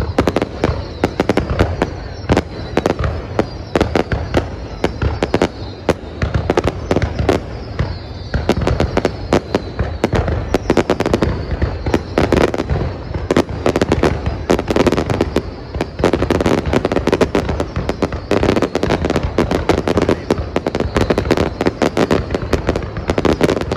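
Aerial fireworks display: a rapid, unbroken series of bangs and crackles, with whistles that fall in pitch through the first half.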